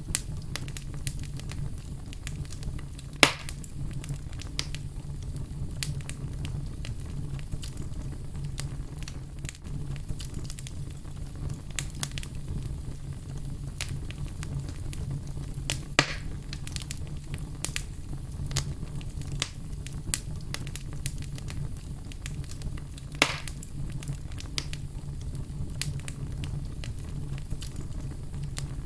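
Fire crackling steadily over a low rumble, with frequent small ticks and three louder pops: about 3 seconds in, about halfway, and about four-fifths of the way through.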